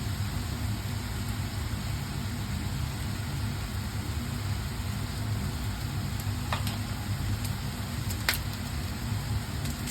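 A steady low mechanical hum, with two short clicks near the end.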